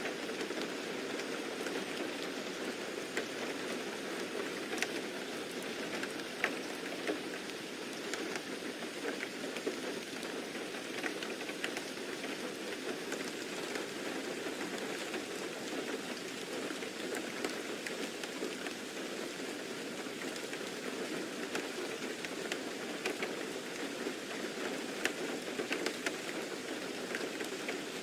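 Steady rain falling, with scattered sharper drop ticks through it.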